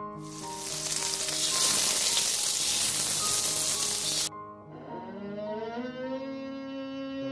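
A loud hiss that cuts off suddenly after about four seconds, then a long drawn-out animal call that rises in pitch and holds, over background music.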